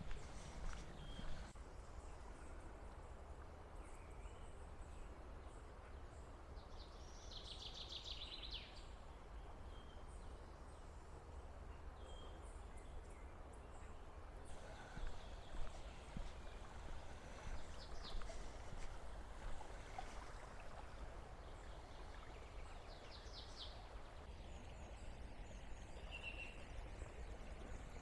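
Short bursts of bird chirps, the loudest about eight seconds in and a few more later, over a steady hiss of flowing river and a low wind rumble on the microphone.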